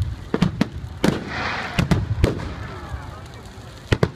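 Fireworks going off: a run of sharp bangs at uneven intervals, with a short crackling burst about a second and a half in and two quick bangs near the end.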